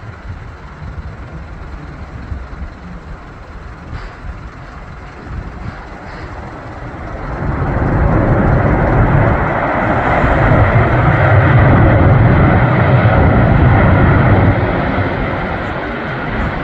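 Airbus A380's four jet engines heard from outside, a low rumble that builds about seven seconds in to a loud, steady roar and eases slightly near the end.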